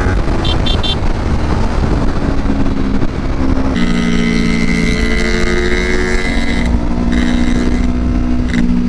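Kawasaki Ninja 250 motorcycle engine running under way with steady wind noise. The engine note changes about three to four seconds in and then holds steady.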